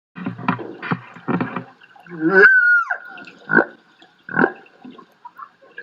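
Humpback whale song recorded underwater: a few low grunts, then a high cry held steady that swoops sharply down in pitch about two and a half seconds in, followed by two short pulsed calls.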